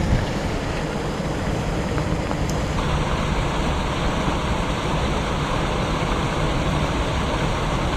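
Steady rain with wind buffeting the microphone: a dense, even hiss over a low rumble, growing a little brighter about three seconds in.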